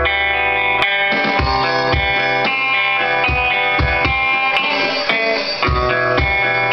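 Electric guitar playing in a live band jam, over short low pulsing notes.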